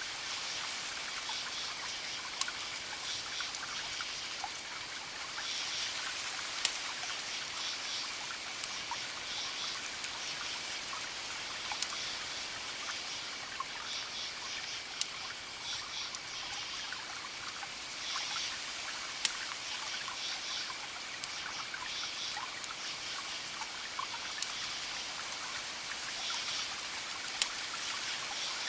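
Campfire crackling, with sharp pops scattered through it, while crickets chirp in short pulsing groups about every second and a half over a steady high insect trill.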